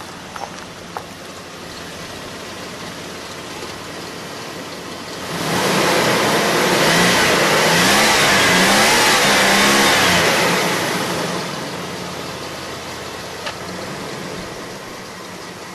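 A motor vehicle driving past, its engine and tyres rising quickly to a loud peak about a third of the way in and then fading away over several seconds.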